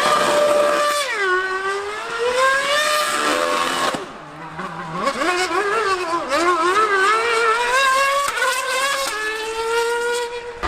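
High-revving racing engine running hard, its pitch climbing and dropping again and again with throttle and gear changes, dipping briefly about four seconds in before climbing again.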